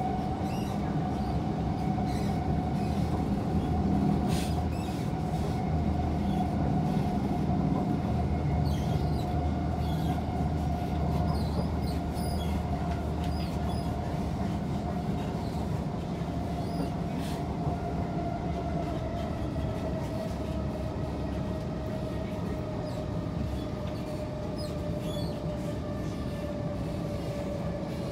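Inside a Kawasaki C151 SMRT train car: a steady whine from its permanent-magnet synchronous traction motors drifting slowly lower in pitch, over the rumble of wheels on rail. Scattered brief wheel squeals and clicks come through.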